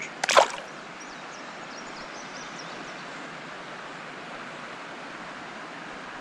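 Steady rushing of river water, with one short, sharp sound falling in pitch about half a second in.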